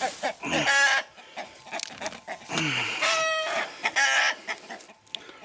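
Chickens clucking and squawking in three bursts of loud calls, dying down near the end.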